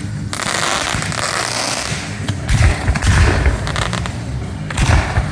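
Aerial fireworks going off: a dense crackle of exploding shells with several deep booms about halfway through and again near the end.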